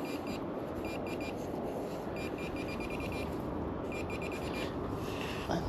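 Metal detector beeping in short, quick high-pitched pulses in several bursts, signalling a metal target just dug into, here a spent .22 cartridge case. Steady wind noise rushes underneath.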